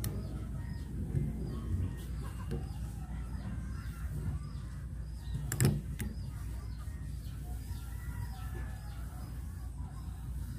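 Hand-tool work on a starter motor being refitted: a low steady rumble, a few light knocks and one sharp metallic knock about halfway through. Birds chirp in the background.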